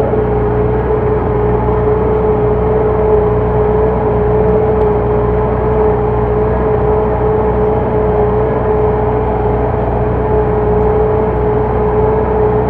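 MTZ tractor's four-cylinder diesel engine running steadily under load while pulling a plough, with a steady whine over the low engine drone.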